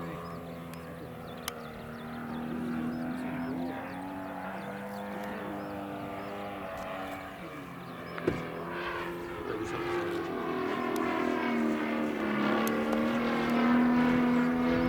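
Radio-controlled model airplane's motor and propeller droning in flight, its pitch sliding down and then up as the plane passes, getting louder near the end. A single short knock a little past halfway.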